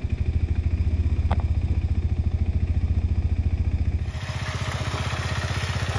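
A KTM 390 Adventure's single-cylinder engine running at a steady low speed with a rapid, even beat. About two-thirds through, the sound turns brighter and hissier while the beat goes on.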